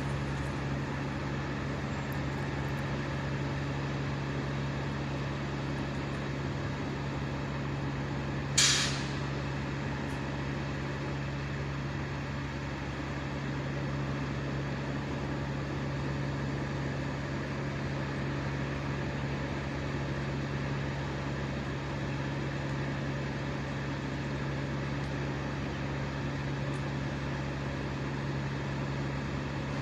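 An engine running steadily at high speed, a constant even hum. About nine seconds in comes one short, sharp burst of hiss that dies away within half a second.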